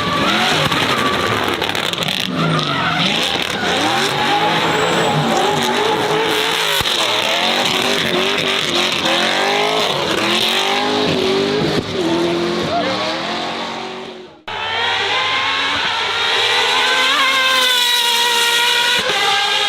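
High-performance car engines revving hard, their pitch swinging up and down again and again. About fourteen seconds in, the sound cuts suddenly to a second engine, higher-pitched, whose pitch climbs steadily and holds.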